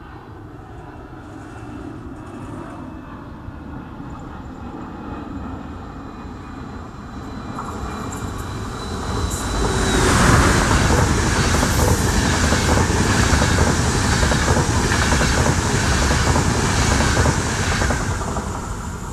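A locomotive-hauled passenger train running through the station without stopping. It approaches for several seconds, gets suddenly loud about halfway through as the electric locomotive passes close by, then its coaches rattle past with a steady clickety-clack of wheels over rail joints that fades near the end.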